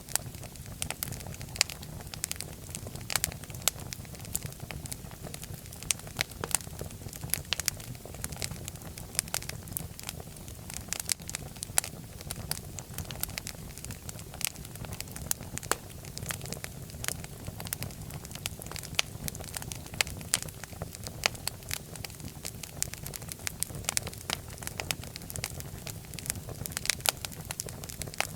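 Fireplace fire crackling: a steady low rumble of flames with many sharp, irregular pops and snaps, several a second.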